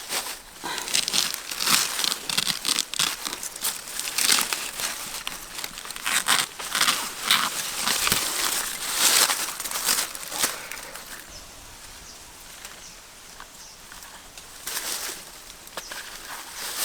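Crinkling and rustling from something being handled, in irregular bursts, dying down a little past the middle and picking up again near the end.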